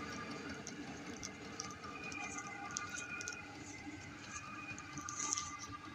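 Small diesel heater running: a steady hum made of several held tones, with scattered faint ticks.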